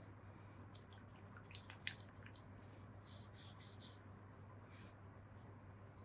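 Near silence: a steady low hum with scattered faint, brief clicks and one sharper click about two seconds in.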